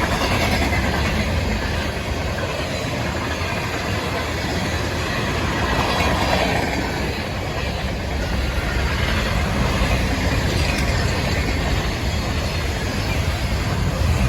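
A train running on its rails, a steady noise with a strong low rumble and no break.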